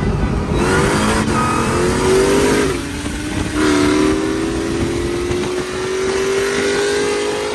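BMW 335is turbocharged straight-six accelerating hard: the revs climb for about two seconds, drop with a quick dual-clutch upshift about three seconds in, then climb steadily again.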